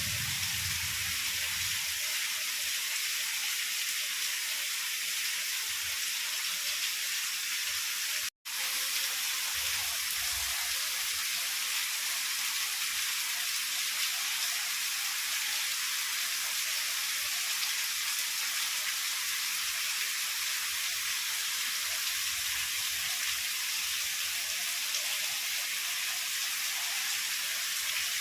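Heavy rain falling steadily, an even hiss, with a few faint low rumbles. The sound cuts out for a split second about eight seconds in.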